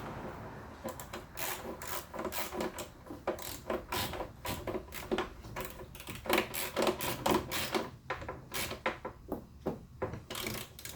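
Oil drain plug being screwed back into the oil pan of a BMW F30 320i, with a dense, irregular run of short clicks and scrapes from the tool working the plug.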